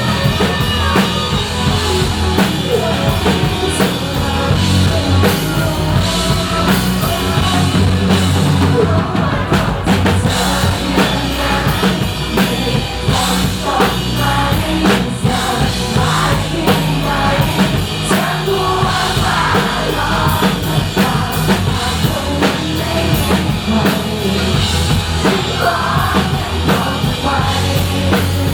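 A rock band playing live, with a drum kit driving a steady beat under guitar, bass and synthesizer.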